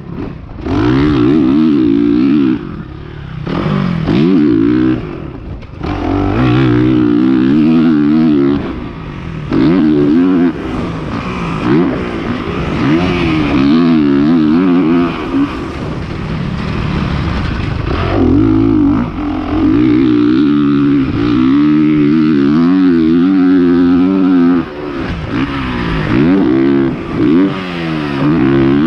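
Honda CRF450R's 450cc single-cylinder four-stroke engine ridden hard, revving up and dropping back again and again, with several short throttle chops.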